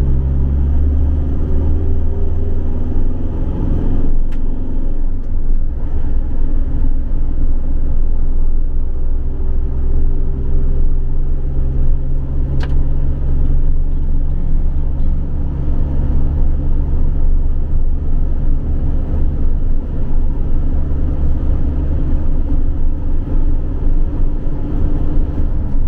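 Campervan driving along the road: a steady low engine and road rumble, with two brief clicks along the way.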